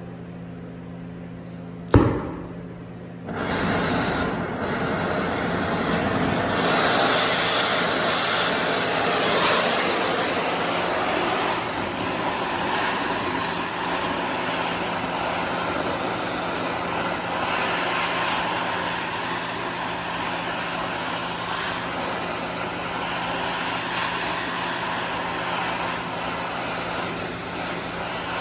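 A sharp pop about two seconds in, then an oxy-acetylene torch fitted with a scarfing tip running with a steady, loud hissing rush as it blows out welds.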